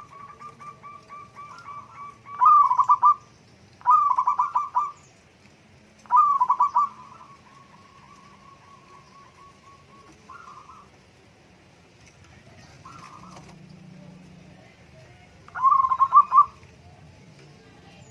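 Zebra doves (perkutut) cooing: runs of quick, soft repeated notes, broken by four loud trilled coos, three in a row in the first half and one near the end, with a few fainter coos between.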